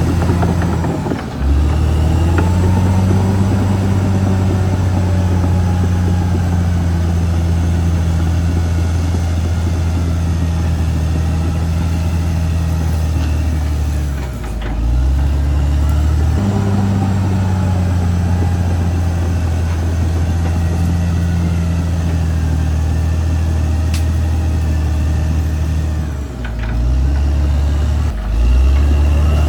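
Caterpillar D6R XL bulldozer's diesel engine running steadily under work. Its note dips briefly four times: once near the start, once about halfway, and twice near the end.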